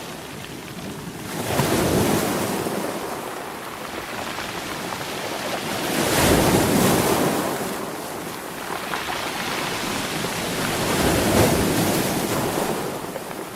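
Sea waves breaking and washing in, rising and falling three times about five seconds apart.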